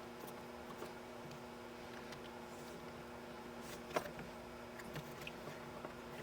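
Scattered light clicks and taps of tools and small parts being handled during pinball playfield disassembly, with one sharper click about four seconds in, over a steady low electrical hum.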